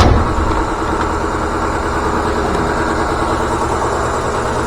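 Air compressor running steadily, with one sharp knock right at the start.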